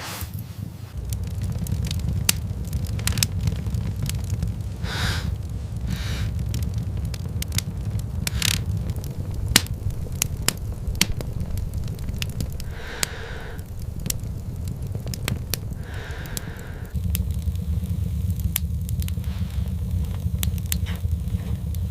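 Steady low wind rumble, stepping up about seventeen seconds in, under irregular crackling and snapping, with a few short higher sounds scattered through.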